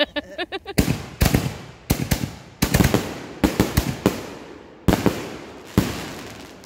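Consumer aerial fireworks bursting overhead: sharp bangs in quick clusters, each trailing off in an echo, with a last single bang near the end.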